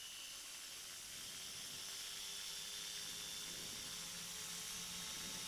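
Steady hiss with the faint hum of a flexwing microlight trike's engine underneath, growing slightly louder as power comes up for the takeoff.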